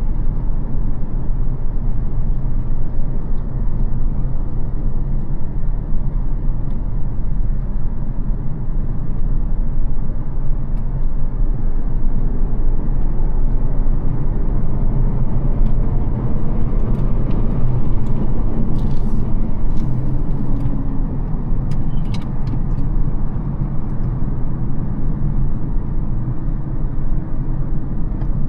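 Mercedes CL600's 5.5-litre twin-turbo V12 (M275) running under way with tyre and road noise, its pitch rising and falling a little around the middle as speed changes. A few sharp clicks come in the second half.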